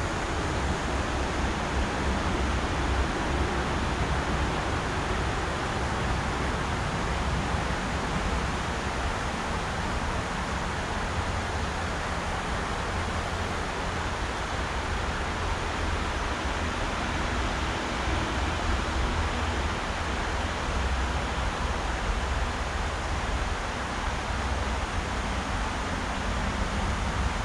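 Mountain river rushing: a steady, unbroken water noise with a deep rumble underneath.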